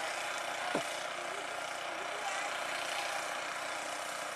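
Snow blower engine running steadily, heard as an even mechanical drone. Less than a second in, a short tone slides quickly downward.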